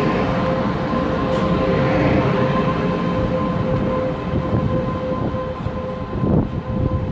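Passenger train running, with a steady rumble and a high whine held on two pitches that dies away near the end.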